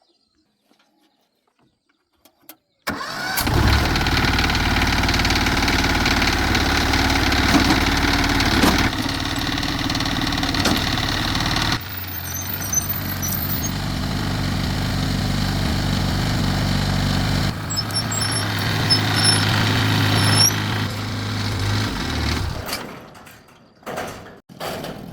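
Engine of a freshly repaired plow tractor, which had been dying and refusing to start, catching about three seconds in and running steadily, then dying away near the end.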